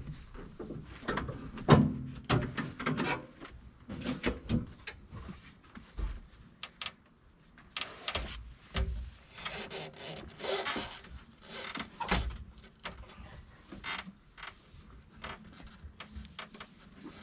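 Irregular clunks, knocks and scrapes of a tractor seat being wrestled out of the cab past the door, its metal frame and base bumping against the cab. The loudest knocks come about two seconds in and again near twelve seconds in.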